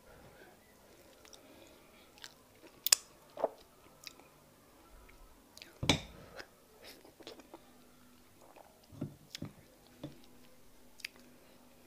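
Close-miked mouth sounds of a person eating fufu with peanut soup by hand: chewing, with irregular short sharp smacks and clicks, loudest about six seconds in.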